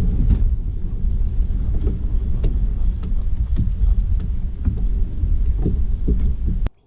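Steady low rumble with scattered short knocks, cutting off suddenly near the end.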